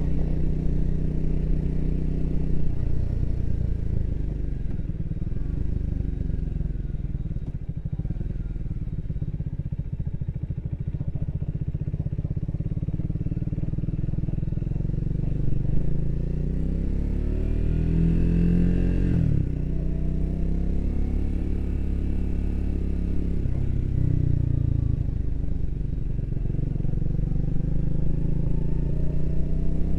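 Triumph Speed 400's single-cylinder engine running under way. It revs up steadily a little past halfway, drops sharply in pitch as it shifts, and picks up briefly again a few seconds later.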